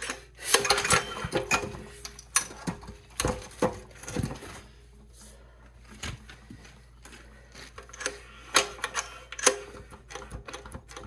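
Small Chinese single-cylinder diesel engine being cranked over by hand without firing, in a few separate bursts of clattering and knocking. It has compression but has not yet caught, the fuel system having just been bled.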